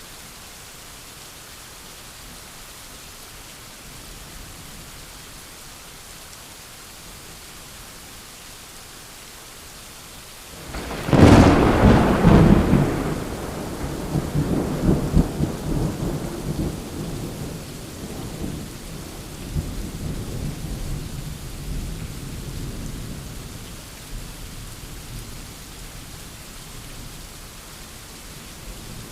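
Steady rain hiss, broken about a third of the way in by a sharp thunderclap that rumbles on and slowly dies away over roughly ten seconds.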